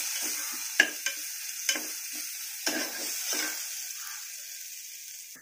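Onions, ginger-garlic paste and tomato sizzling in hot sesame oil in a pressure cooker pan while a metal spoon stirs them. The spoon scrapes and knocks the pan bottom several times. The sizzle gradually fades.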